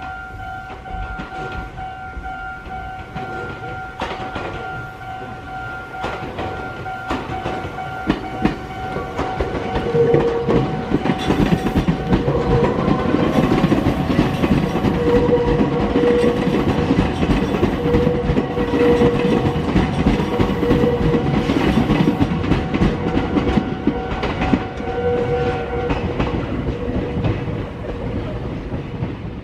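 Meitetsu electric train running through the junction near Inuyama Station, growing louder from about ten seconds in, with wheels clattering over the rail joints and points and a high tone that comes and goes.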